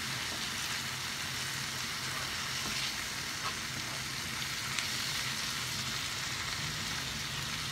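Chopped leeks and red peppers sizzling steadily in butter and oil in a large frying pan, stirred with a wooden spoon that gives a few light scrapes against the pan.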